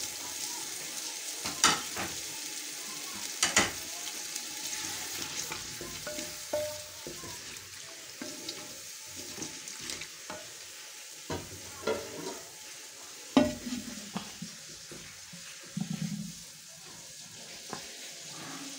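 Onion, tomato and spices frying in oil in a clay handi, a steady sizzle, with a wooden spatula stirring the masala and knocking against the clay pot now and then.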